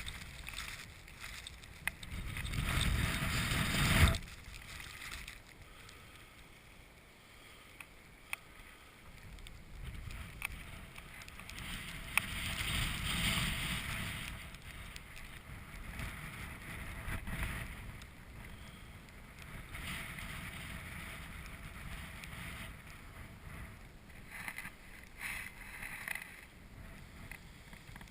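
Strong storm wind gusting across open lake ice and buffeting the microphone with a rushing, rumbling noise. It comes in several swells, the loudest in the first few seconds, ending abruptly, with weaker gusts rising and falling after.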